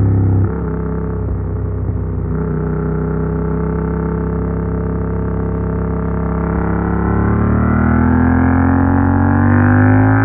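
Yamaha MT-07's 689 cc CP2 parallel-twin engine through an Arrow Works full exhaust with dB killer, heard while riding. The engine note drops as the throttle eases about half a second in, holds steady, then rises as the bike accelerates over the last few seconds.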